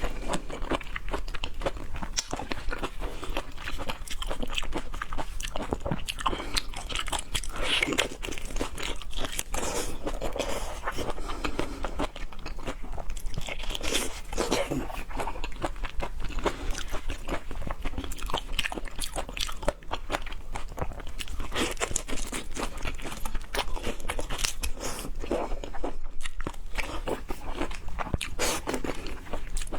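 A person chewing and biting food close to the microphone: continuous wet crunching and smacking clicks.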